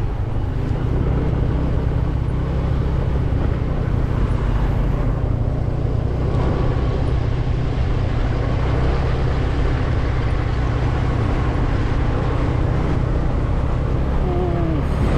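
Small scooter engine running at a steady riding speed, a low, even hum with wind and road noise on the microphone.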